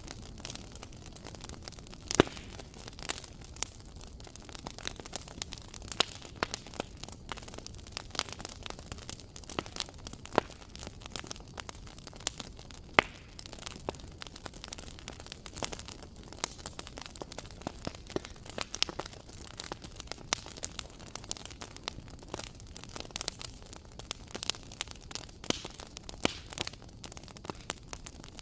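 Wood fire crackling in a fireplace: a steady low hiss with irregular sharp pops and snaps, a few of them much louder.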